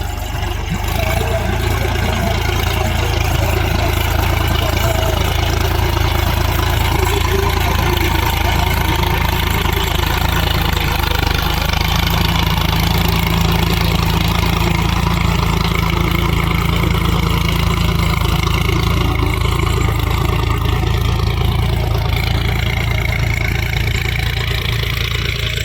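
Tractor's diesel engine running steadily, a loud, even drone with no change in pitch.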